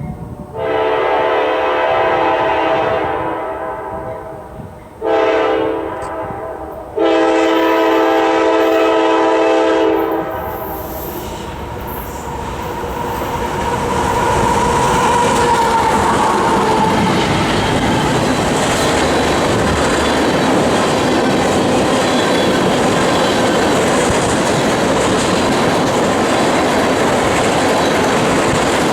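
GE AC4400CW diesel locomotive's air horn sounding three blasts, long, short and long, then the locomotive and a loaded crude oil train passing close by with a steady rumble and clatter of wheels over the rails.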